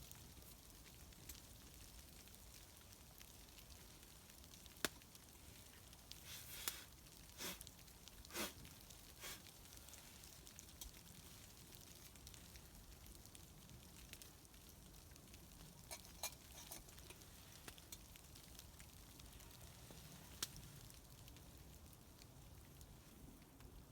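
Small campfire crackling faintly under a low steady hiss, with scattered sharp pops and a cluster of them about six to nine seconds in.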